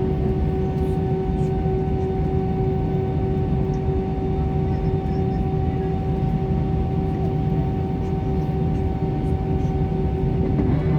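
Steady airliner cabin drone: a constant low rumble with two steady hum tones, unchanging throughout.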